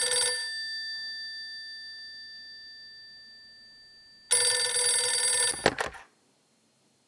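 Telephone ring sound effect played back: a ring ends just after the start and its tones die away over about four seconds, then a second ring about four seconds in is cut off abruptly after about a second. Straight after the cut-off comes the short sound of a telephone receiver being picked up, a few quick knocks, then silence.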